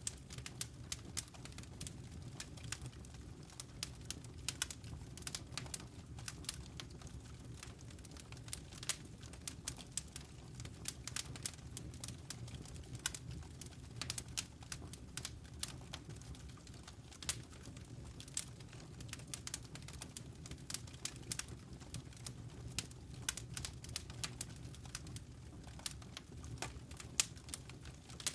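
Wood fire crackling in a fireplace: irregular sharp pops and snaps, several a second, over a steady low rumble of the burning flames.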